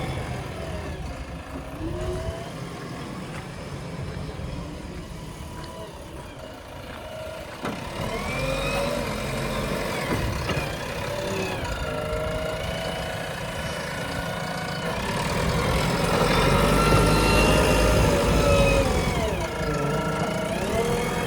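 Diesel engine of a JCB 3DX backhoe loader running while it digs and loads, its pitch rising and falling as it revs up under hydraulic load and settles again. It grows louder about halfway through and runs hardest near the end.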